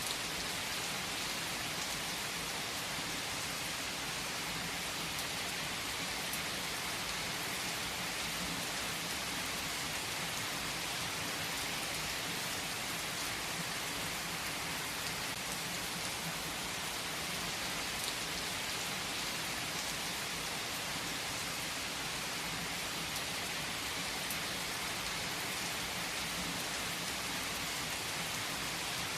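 Steady rainfall: an even, unbroken hiss of rain, with a few faint drop ticks now and then.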